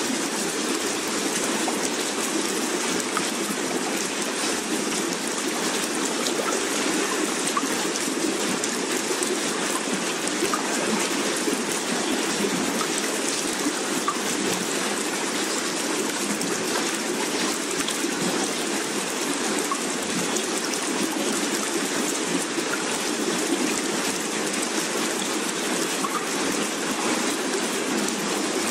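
Steady rain sound: an even hiss of falling rain with no swells or breaks.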